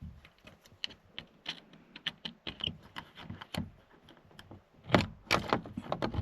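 Irregular light clicks and knocks of hard objects being handled and set down in a small space, with a louder cluster of knocks about five seconds in.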